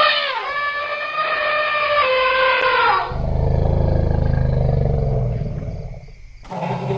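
Elephant trumpeting: high calls, one falling in pitch right at the start, for about three seconds, then a lower rumbling call for about two and a half seconds before it fades.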